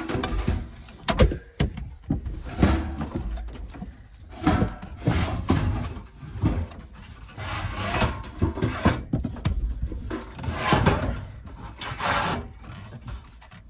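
Irregular knocks, thuds and scraping of wooden boards and equipment being handled and shifted into place during HVAC installation work, with a few sharp knocks in the first two seconds.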